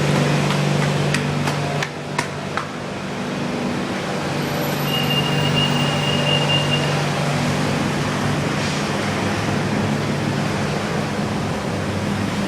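Running noise inside a BTS Skytrain car: a steady rumble and hum, with a few sharp clicks in the first two seconds or so and a thin high tone for about two seconds near the middle.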